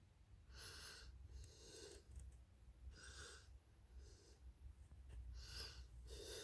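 Near silence with faint, soft breaths close to the microphone, recurring about every second.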